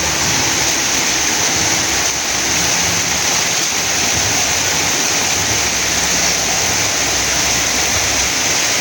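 Heavy rain pouring down: a loud, steady, even hiss of falling water.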